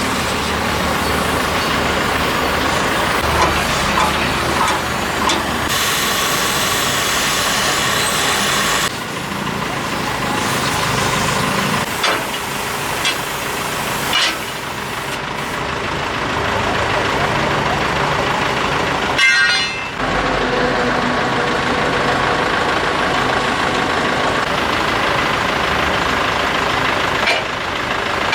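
Heavy diesel machinery running steadily, with a few short knocks and clanks, and the sound changing abruptly several times.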